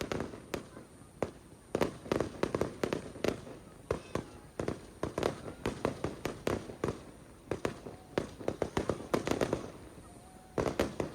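Aerial fireworks bursting in rapid volleys of sharp bangs and crackles, several a second, with a short lull shortly before the end.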